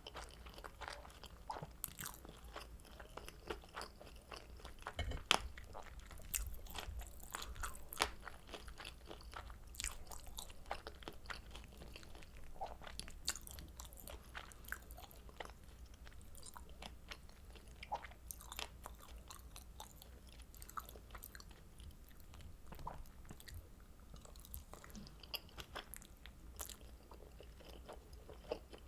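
Close-miked chewing of kimchi dumplings dipped in creamy carbonara buldak sauce: soft, wet chewing with many small clicks and smacks of the mouth, busiest in the first third.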